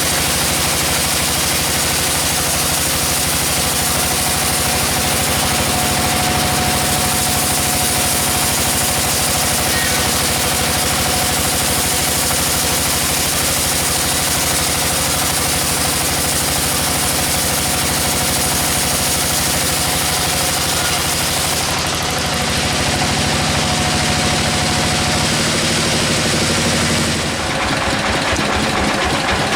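Engine-driven sawmill running steadily, with a dense high hiss over the engine. The hiss thins out about three-quarters of the way through, and the sound changes again shortly before the end.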